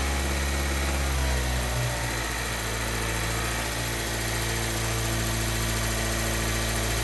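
2014 Mazda 3's 2.0-litre four-cylinder engine held at a steady throttle of about 2,000 RPM, running evenly on new spark plugs fitted to cure a cylinder 2 misfire. Its tone settles slightly a little under two seconds in, then holds steady.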